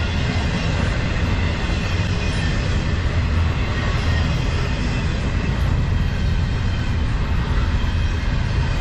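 Intermodal freight train's double-stack well cars rolling past at speed: a steady, deep rumble of steel wheels on rail.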